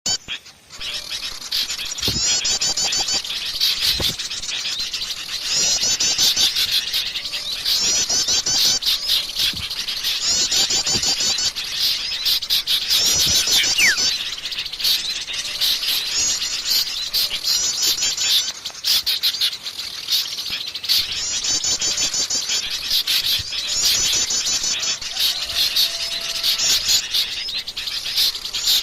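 A bird-lure recording of many small songbirds calling noisily at once. Bursts of rapid, high chattering come again and again, every two to three seconds, over a constant background of chirps.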